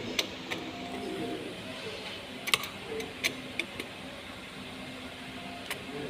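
Scattered sharp metallic clicks and light knocks of hand tools working on an engine's valve gear, over a faint steady hum.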